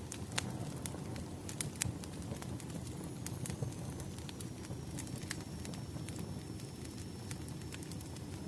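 Burning firewood crackling: a steady low hiss and rustle of the fire with scattered sharp pops and snaps, irregularly spaced.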